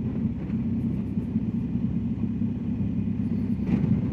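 BMW R1250GS Adventure's boxer-twin engine running steadily at low revs on a steep descent, heard from on the motorcycle.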